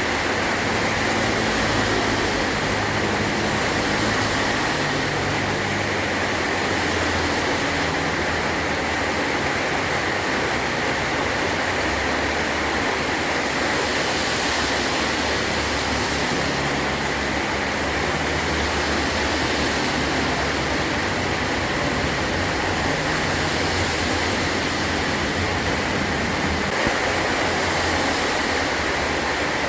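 Heavy rain pouring steadily on a metal tin roof, a dense, even hiss without a break.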